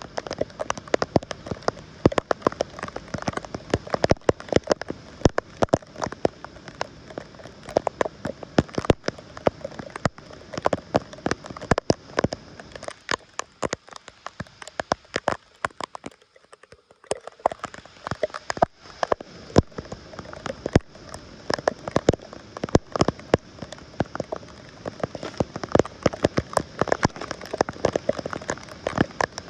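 Rain pattering close by: many sharp, irregular drop ticks that thin out briefly about halfway through, then pick up again.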